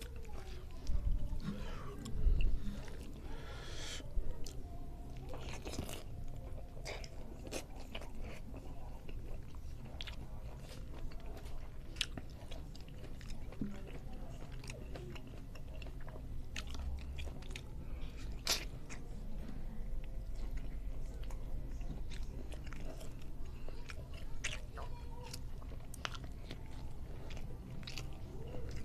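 Close-miked chewing of a handful of rice and fish eaten by hand, with wet mouth sounds and many sharp clicks as he bites and chews. A few louder knocks come about one to three seconds in.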